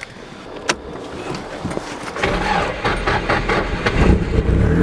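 A Nissan 240SX's engine cranked over and started: a few clicks, then a rough low churning from about two seconds in, and the engine catching near the end and settling into a steady run.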